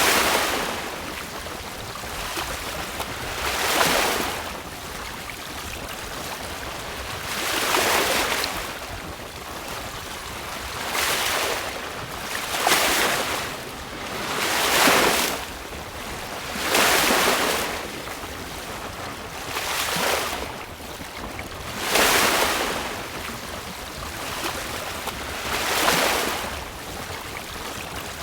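Choppy sea water rushing and splashing along a sailboat's hull, in surges every two to four seconds, over a steady wash of wind.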